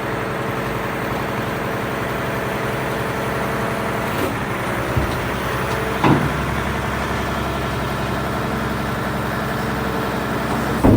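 Mack MRU front-loader garbage truck's engine idling steadily, with a few brief sharp sounds from the truck about four, six and eleven seconds in.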